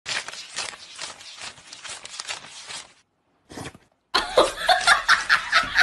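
A stack of paper banknotes rustling and flicking as it is counted by hand. From about four seconds in, a person laughs in quick repeated bursts.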